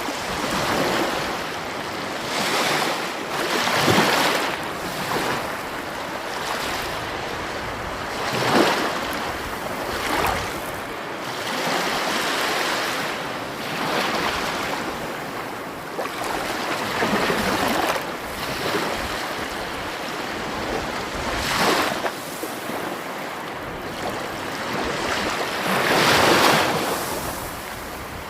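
Sea waves breaking on the shore, swelling and washing in surges every few seconds over a steady rush of surf.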